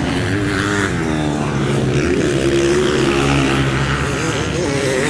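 Several motocross bikes racing on the track, their engines revving up and down as the riders work the throttle.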